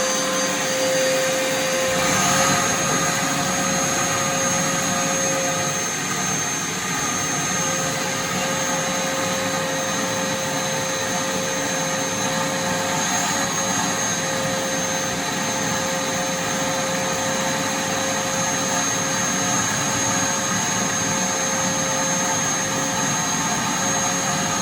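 A vacuum cleaner running steadily at full speed with a high, even whine, sucking up dirt and dust from around a sewer line.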